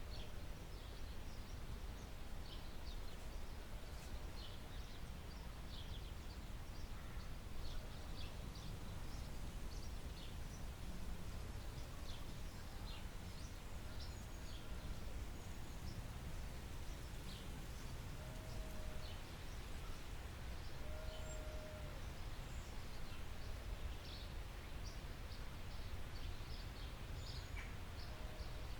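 Forest ambience: many birds chirping in short high calls scattered throughout, with a few lower whistled notes midway, over a steady low rumble.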